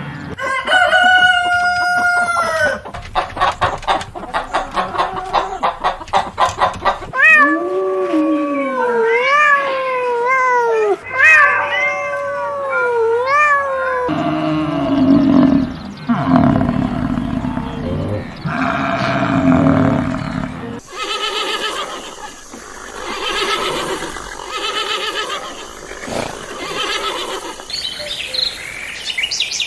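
A string of different animal calls, one kind after another: a pitched call with many overtones, a fast run of pulses, short calls that swoop up and down in pitch, then lower, rougher calls.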